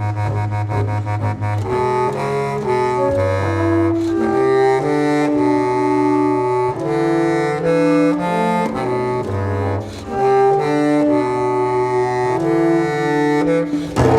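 Contemporary chamber music for clarinet and double bass. A low held note opens, then from about two seconds in a reed line of short, quickly changing notes plays over shifting low notes. The sound turns rougher and noisier right at the end.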